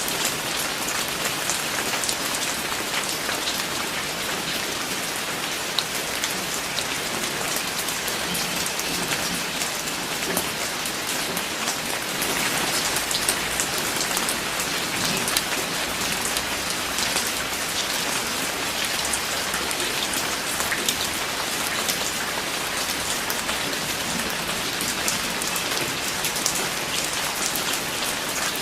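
Steady rain falling, with many close, distinct drops pattering on a surface.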